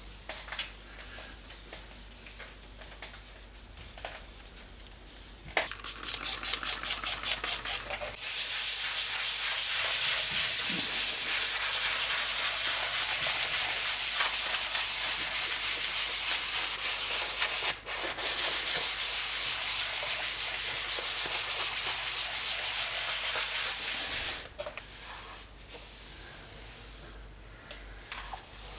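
Vigorous scrubbing of a surface by hand: about two seconds of quick separate strokes, then some sixteen seconds of fast continuous scrubbing with one brief break partway, ending in quieter handling sounds.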